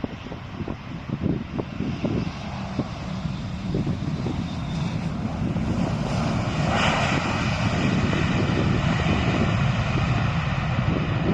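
Landing jet airliner's engines rumbling, growing louder over the first half and then holding steady, with wind buffeting the microphone.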